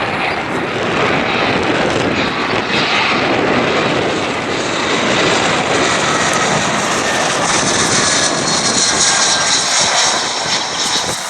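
British Airways Airbus A320-232's twin IAE V2500 turbofan engines on landing approach: a loud, steady jet roar, with a high whine growing stronger in the second half.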